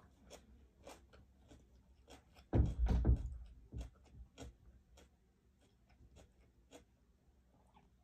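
Close-miked eating sounds: chewing chicken inasal with a run of small wet mouth clicks and smacks. A louder, low thud comes about two and a half seconds in.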